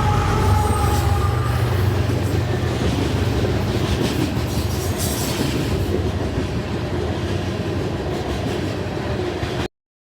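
Freight train passing: diesel locomotive engine rumble that fades after the first second or so, then the steady rolling noise of rail cars on the track. The sound cuts off suddenly near the end.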